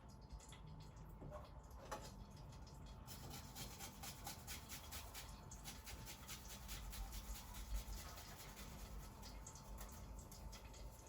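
Faint kitchen handling: a dense run of small clicks and light crackle that starts about three seconds in, over a faint steady hum.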